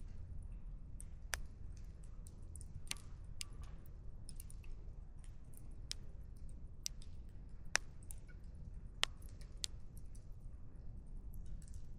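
Campfire burning: firewood crackling with irregular sharp pops, a few of them louder, over a low steady rumble.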